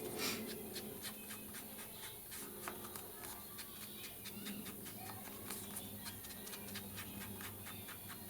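Scattered small clicks and taps of paper and craft materials being handled, over a low steady hum.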